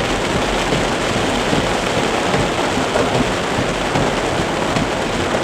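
Heavy cloudburst rain drumming on a car, a steady dense hiss.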